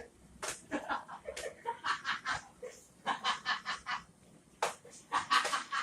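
Laughter in short repeated bursts, about four a second, in two runs.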